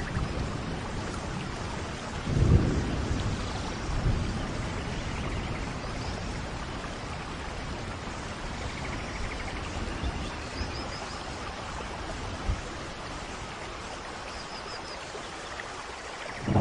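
Steady rain falling in a forest, with a low rumble of thunder swelling about two and a half seconds in and a weaker one shortly after. Faint short high chirps come twice in the second half.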